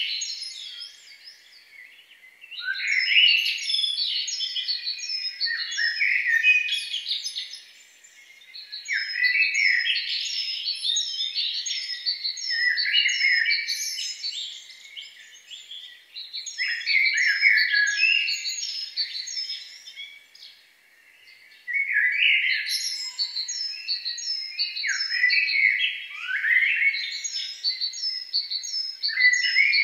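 Birds chirping and singing in four bouts a few seconds long, with short pauses between them. Each bout carries a steady run of repeated high notes.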